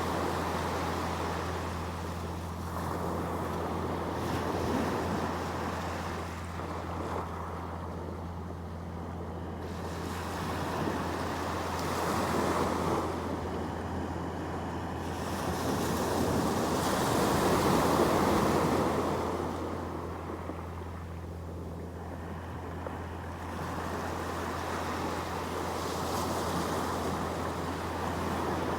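Sea waves washing onto the shore, the surf swelling and receding every several seconds, with the loudest swell a little past halfway. A steady low hum runs underneath.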